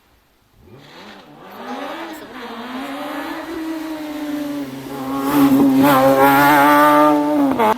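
Rally car engine running flat out at high revs as the car approaches, rising in pitch, then holding a steady high note as it grows louder. It is loudest in the last few seconds and cuts off abruptly near the end.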